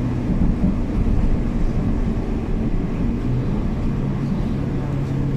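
City bus engine running, heard from inside the passenger cabin as a steady low rumble. A steady engine tone sets in about three seconds in.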